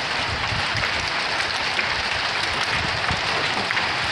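Small hail coming down steadily: a dense, even patter of many little impacts.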